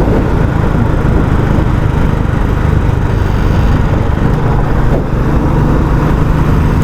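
Royal Enfield Classic 350's single-cylinder engine thumping through its stock exhaust while the bike is ridden, loud and steady.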